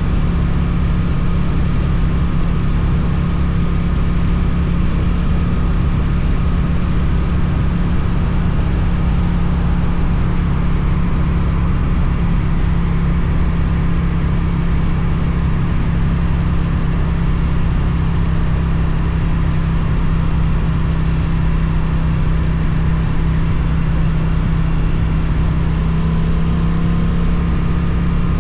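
Suzuki GSX-8TT motorcycle's parallel-twin engine through an Akrapovic exhaust, running at a steady, nearly constant speed while riding.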